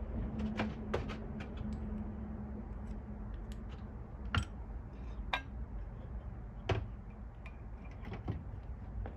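Scattered sharp clicks and knocks of metal tools and engine parts being handled during a teardown, about six of them, over a low workshop rumble with a faint steady hum in the first few seconds.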